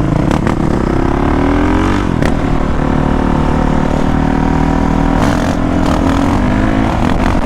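Honda CRF450R's single-cylinder four-stroke engine under way, revving up for about two seconds, dropping suddenly in pitch, then pulling with a slowly rising pitch.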